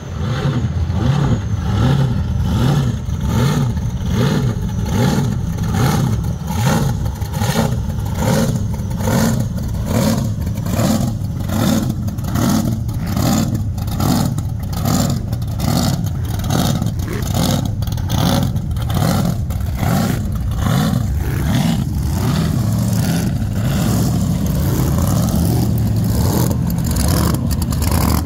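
Supercharged pro street V8 engines running at low speed with a heavy, choppy lope as the cars roll by, the rumble pulsing in a regular rhythm and evening out somewhat near the end.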